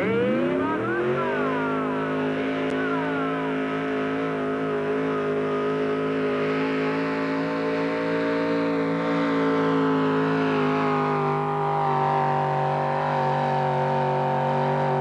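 Pulling truck's engine at full throttle during a sled pull: it revs up sharply in the first second or so, then holds a loud, steady high rpm, sagging slightly near the end as the sled load builds.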